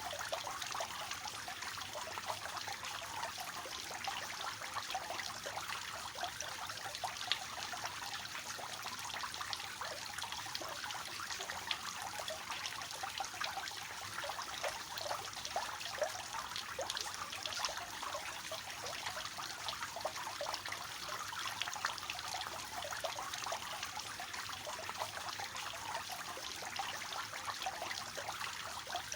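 Three-tiered fountain with water trickling and splashing steadily from tier to tier, a dense patter of small splashes over a soft rushing.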